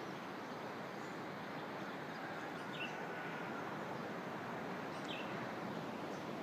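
Steady outdoor background hiss with short bird chirps, one about two and a half seconds in and another about five seconds in.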